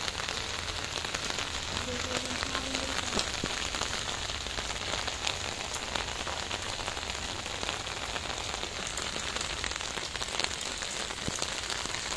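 Heavy rain falling onto a flooded concrete rooftop: a steady, dense patter of drops splashing into standing water.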